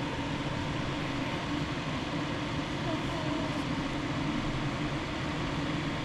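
Steady whirring hum of a running fan, even throughout, with no distinct clicks or knocks.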